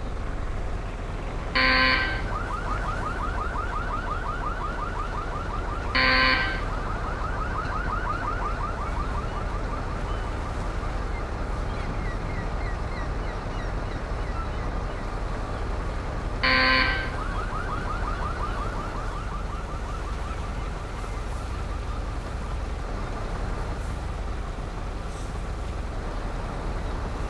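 A truck horn sounds three short blasts, each followed by a fast warbling tone that fades over several seconds, over steady engine and road noise.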